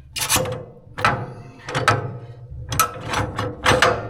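Sliding steel parts on a Hud-Son HFE-33 bandsaw mill being worked back and forth, with about six short scraping, clanking strokes. The parts stick despite lubrication because the fresh paint on them has not yet worn off.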